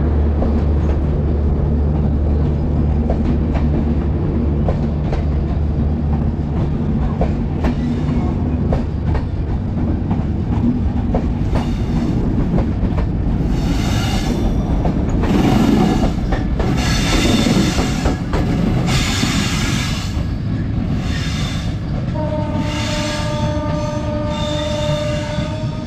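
Diesel-hauled passenger train passing along the track: a heavy locomotive engine drone that fades out in the first few seconds, then the coaches rattling over the rails. In the middle there is a run of high-pitched squeals from the wheels. About 22 seconds in, a steady train horn sounds and holds to the end.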